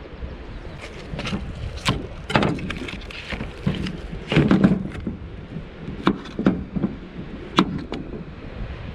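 A series of irregular knocks and clicks, a cluster about halfway through the loudest, over a low steady rumble of wind or water.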